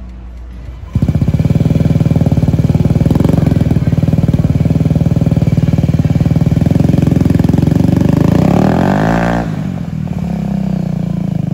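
A 2022 Honda Ruckus's 49cc four-stroke single, running through a freshly fitted Yoshimura aftermarket exhaust. It starts abruptly about a second in and runs loud and steady. Around eight seconds the pitch rises and then falls away, and it settles into a quieter idle.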